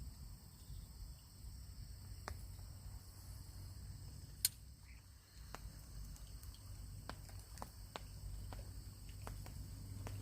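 Light rain starting: scattered single raindrops tapping on a fishing parasol, coming more often after about five seconds, over a low steady rumble. One sharper tap a little before halfway is the loudest.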